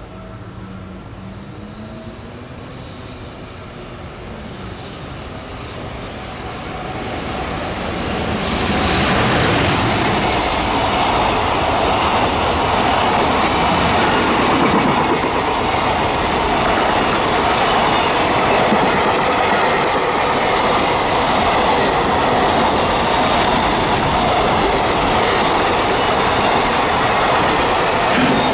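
EF210 electric locomotive hauling a long container freight train, approaching and passing close by. It grows louder over the first eight seconds or so, then holds a steady loud running noise as the container wagons' wheels roll past on the rails.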